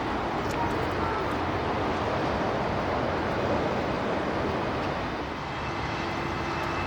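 Jet airliner engines running at takeoff power during a departure, a steady rushing noise that holds at an even level.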